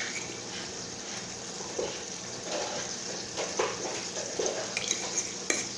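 Chicken thighs simmering in a skillet, a steady sizzling hiss, with a few faint taps and scrapes and a couple of sharp clicks near the end.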